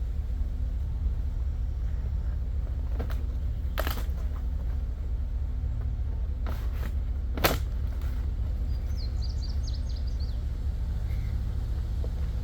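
A truck engine runs with a steady low rumble, broken by a few sharp clicks or knocks. A bird chirps briefly about nine seconds in.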